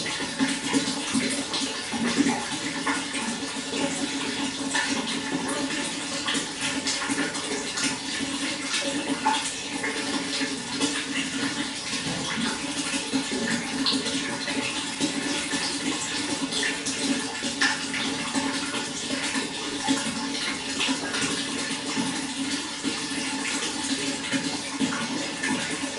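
Running water flowing steadily, with a continuous rush and many small splashes and trickles.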